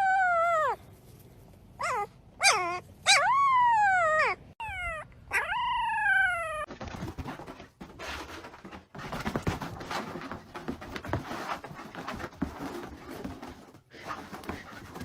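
An animal giving about six short cries that rise briefly and fall in pitch, spread over the first six seconds, followed by a stretch of scuffling, rustling noise.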